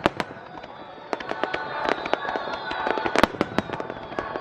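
Aerial fireworks bursting and crackling: a rapid, irregular series of sharp bangs and crackles, with the loudest bang about three seconds in.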